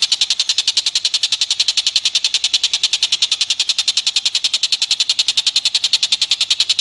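A recorded animal call: a long, even, rapid trill of high clicking pulses, about ten a second, held at one steady pitch.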